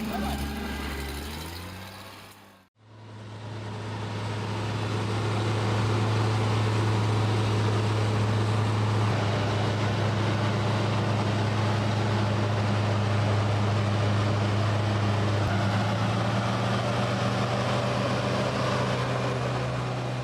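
A heavy vehicle's engine running with a steady, unchanging drone, fading in after a brief cut about three seconds in; before the cut, another engine sound fades out.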